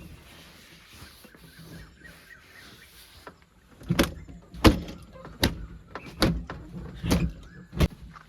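Heavy-machine engine running low, joined from about four seconds in by six sharp knocks, roughly three quarters of a second apart.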